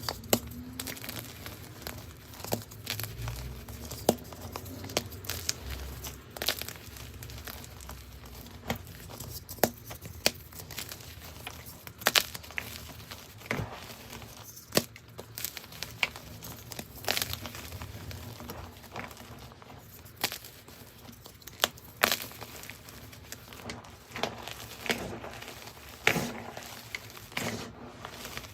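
Gym chalk being crushed and crumbled by hand: a continuous, irregular run of sharp crunches and crackles.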